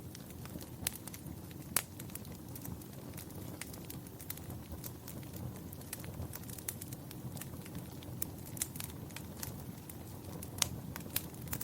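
Wood fire burning in a fireplace, a low steady rumble of flames under irregular sharp crackles and pops, a few louder snaps among them.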